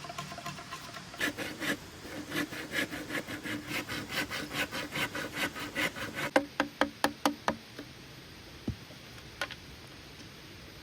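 Hand saw cutting wood in quick, even back-and-forth strokes, about four a second. The sawing stops and is followed by a fast run of about seven sharp wooden knocks, then two single knocks.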